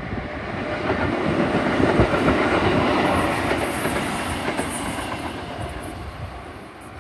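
Sanyo Electric Railway 5000 series electric train passing close by, its wheels rumbling on the rails. The noise swells to a peak about three seconds in and then fades away.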